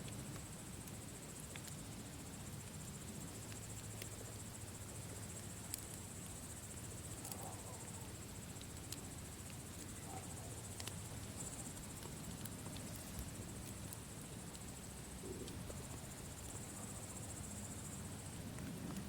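Campfire crackling, with scattered sharp pops over a low steady rumble, against a continuous high trilling of crickets.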